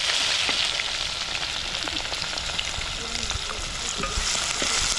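Food sizzling steadily in hot oil in a cooking pot, with small pops and crackles of spattering.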